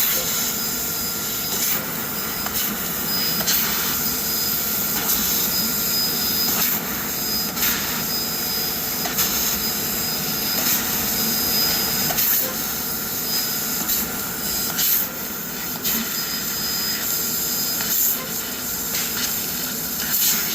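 CNC laser cutting machine cutting steel sheet: a steady noise with a faint high whistle that comes and goes, and short sharp bursts every one to two seconds.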